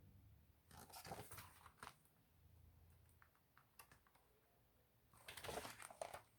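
Near silence with a few faint clicks and rustles: one cluster about a second in and another near the end.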